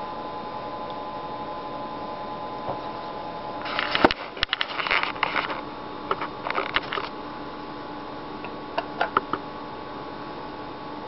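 Handling noises over a steady background hum: a cluster of rustling and sharp clicks from about four to seven seconds in, then a few light clicks near nine seconds, as a feeder cricket is picked out for a tarantula sling's enclosure.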